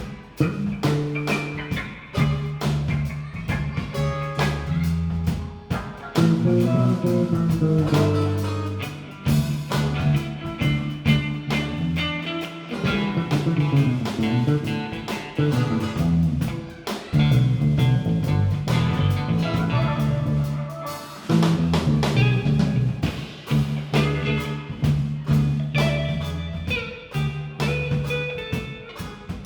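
Band playing an instrumental passage: guitar over bass and drum kit, with steady drum hits through it.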